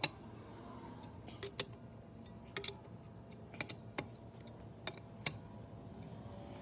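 Scattered light metallic clicks and taps, about ten at irregular intervals over a low steady background: small metal parts and hand tools being handled in gearbox restoration work.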